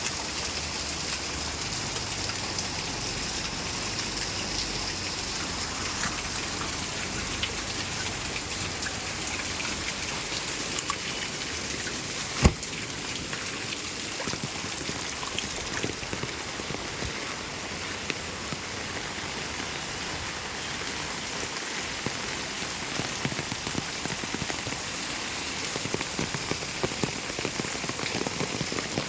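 Heavy rain falling steadily, a dense hiss with the patter of drops hitting a surface, and one sharp knock about halfway through.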